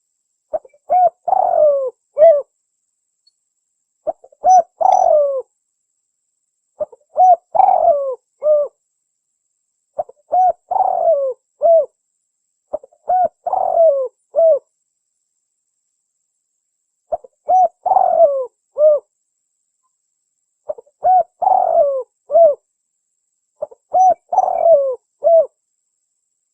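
Spotted dove (tekukur) cooing: a lure call used to draw in wild doves. It gives eight phrases of several coos each, one about every three seconds, with a longer pause near the middle.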